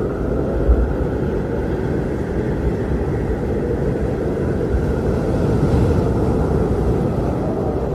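Strong blizzard wind blowing steadily as a deep, rumbling noise, with a few stronger low gusts, one just under a second in and another around the middle.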